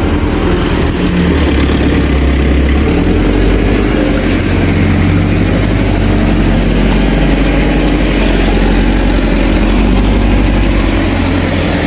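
A heavy engine running steadily close by, a loud low hum whose pitch drops a little about three seconds in.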